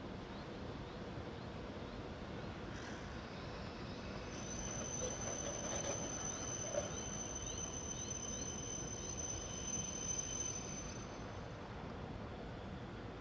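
Train rolling slowly through a rail yard, heard from above as a steady hiss of running noise. A high, thin steady whine lasts several seconds in the middle.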